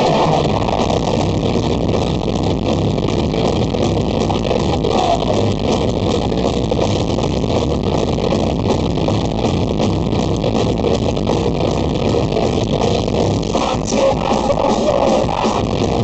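Loud rock music with electric guitar, dense and continuous.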